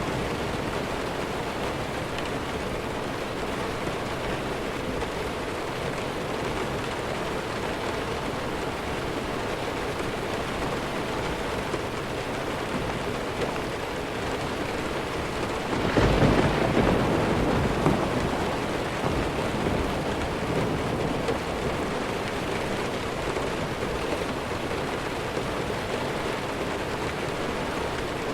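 Steady heavy rain, with a roll of thunder about sixteen seconds in that swells and then fades over a few seconds.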